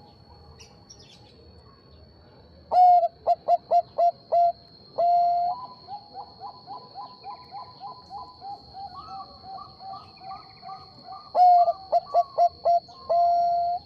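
Zebra dove (perkutut bangkok) cooing: a loud run of short staccato coos ending in a long held coo, then a softer, faster string of coos. A second loud staccato run follows near the end, again closing on a long coo.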